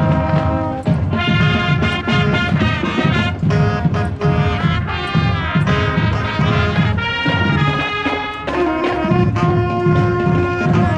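High school marching band playing, brass carrying the tune in sustained notes, with a long held chord in the last few seconds.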